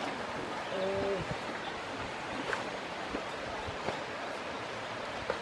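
Steady outdoor background hiss with one short cooing bird call about a second in.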